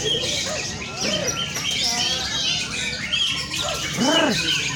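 Several caged white-rumped shamas (murai batu) singing at once: a dense, overlapping tangle of short whistles and trills, with a louder, lower swooping call near the end.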